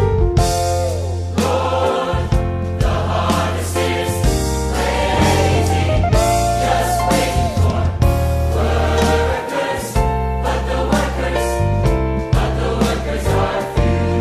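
A choir singing a gospel song, backed by instruments with a strong bass and a steady beat.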